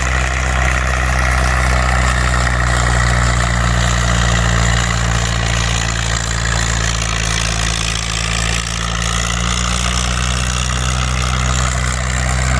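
Tractor engine idling steadily, its pitch and level unchanging.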